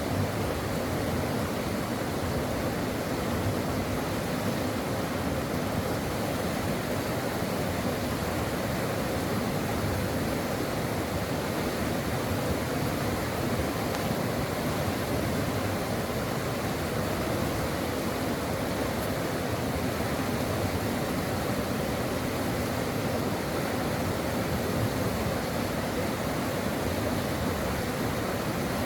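Brook water running steadily, an even rushing with no breaks or separate events.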